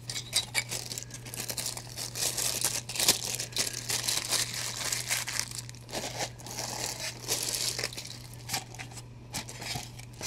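Packaging crinkling and rustling, with irregular clicks and scrapes, as a collectible statue is handled and worked back into its box insert.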